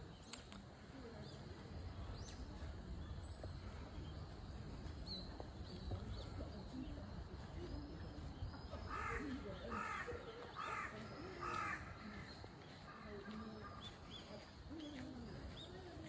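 A bird calling four times in quick succession about two-thirds of the way in, over a steady low rumble and scattered faint high chirps.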